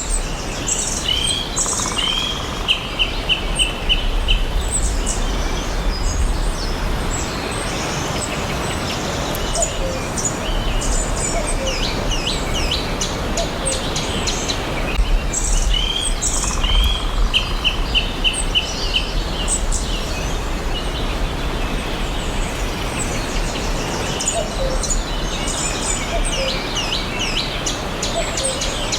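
Forest birds chirping and singing, several calls overlapping, with a quick run of repeated notes twice, over a steady low rumble of background noise.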